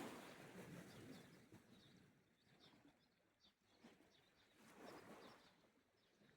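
Faint small sea waves washing on the shore: one wave draws back and fades early on, and another swells and recedes a little past the middle. Faint bird chirps are heard throughout.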